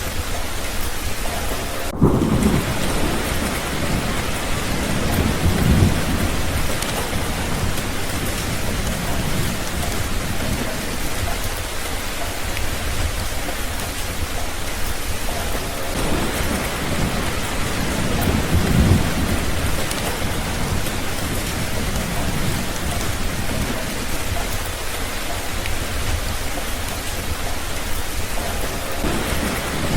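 Steady rain falling, with low rumbles of thunder rolling in and fading: one begins suddenly about two seconds in, another swells past the middle, and a third starts near the end.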